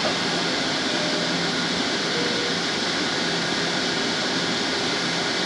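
Bombardier M-7 electric commuter train standing at the platform with its doors open, its onboard equipment running with a steady hiss and a low hum.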